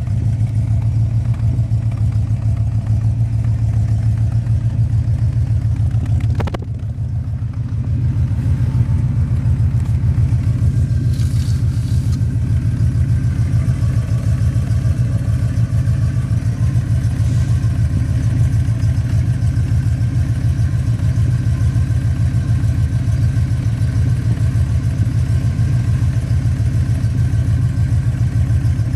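1967 Cadillac Eldorado's 429 V8 idling steadily, heard close to the exhaust as a low, even note. The level drops briefly about six and a half seconds in, then comes back.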